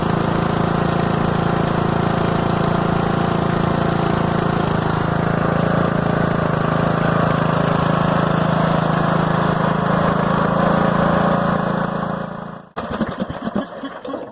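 Southern States riding lawn tractor's engine running steadily, then winding down and shutting off near the end, followed by a few scattered clicks and knocks.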